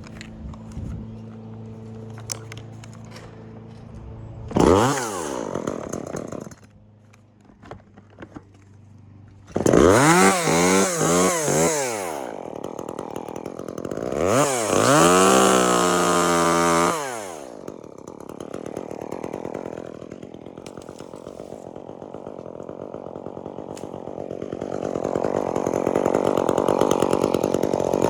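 Chainsaw engine revving in bursts: a short rev about four seconds in, then two longer revs with the pitch sweeping up and down, idling between them, and running harder again near the end.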